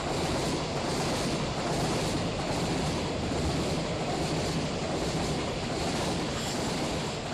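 Freight train rolling past, a steady rumble of wheels on rail from its long string of container wagons.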